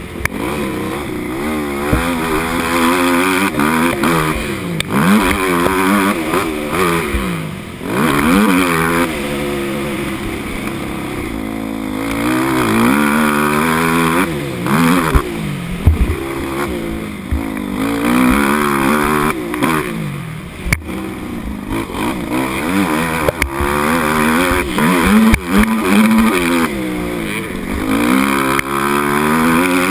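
Motocross dirt bike engine racing, its pitch climbing as it revs up and dropping back over and over as the rider works the throttle and gears. There are a few sharp knocks, two of them in the second half.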